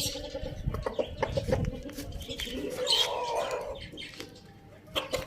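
Chickens clucking and calling softly while feeding, with many quick sharp taps of pecking; a louder run of calls comes about three seconds in.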